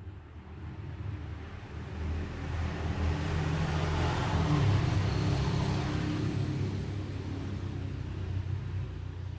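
A motor vehicle passing by: a low engine rumble that swells to a peak about halfway through and then fades away.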